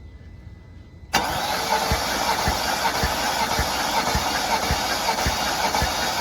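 BMW M62 V8 turning over on the starter without firing, during a compression test. The starter cuts in about a second in and cranks steadily, with an even pulse of about two compression strokes a second. The cylinder on test reads only about 110 psi, which points to a badly worn, scored engine.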